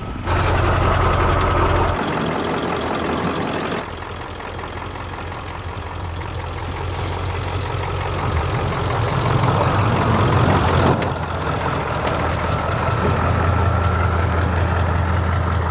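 Diesel pickup truck engine running with road noise, a steady low hum that shifts abruptly about two and four seconds in, then slowly swells.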